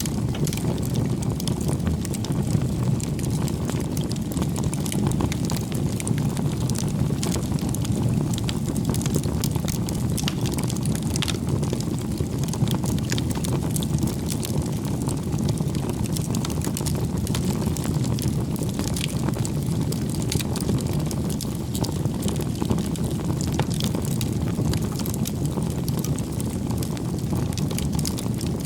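Wood campfire burning: a steady low rush of flame with frequent small, sharp crackles and pops scattered throughout.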